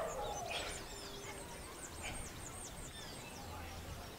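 Birds chirping outdoors in quick high repeated notes, with a few fainter, lower calls in the background.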